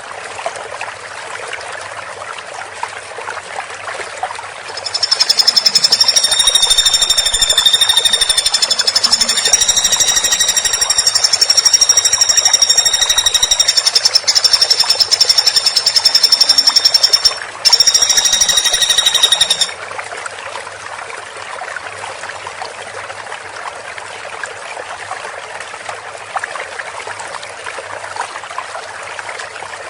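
Woodpecker giving a fast, high-pitched rattling trill, starting about five seconds in and running for roughly twelve seconds, breaking off briefly, then going on for two seconds more. A steady hiss lies underneath throughout.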